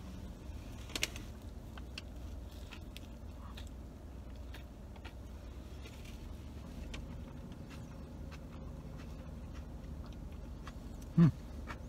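A man chewing a mouthful of brisket sandwich, with faint wet clicks and small crunches, over the steady low hum of a car cabin. Near the end comes a short hummed "mm" of the voice.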